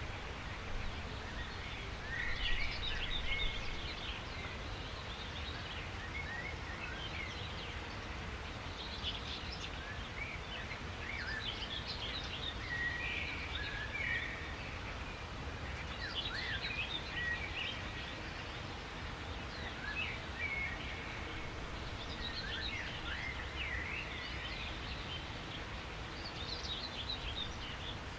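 Several songbirds chirping and trilling in short, high-pitched bursts every few seconds, over a steady low background hiss of outdoor ambience.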